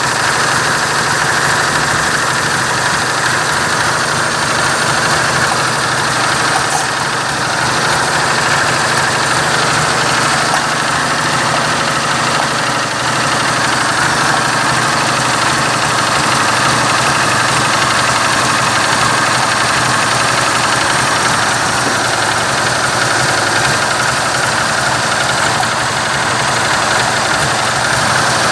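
1946 Chevrolet truck's 235 cubic-inch straight-six engine idling steadily.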